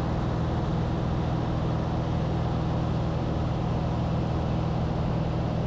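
Aircraft engine running steadily: a loud, even drone with a strong low hum.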